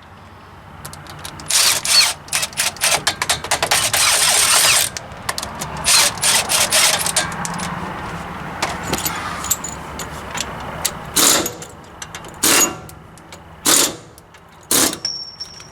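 Metal tool work on a truck's front axle: rapid rattling bursts of a power tool for a few seconds, then four separate loud knocks about a second apart near the end.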